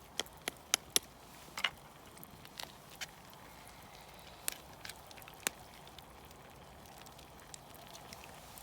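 Campfire crackling: irregular sharp pops, a quick cluster in the first second and a half and scattered ones after, over a low steady hiss.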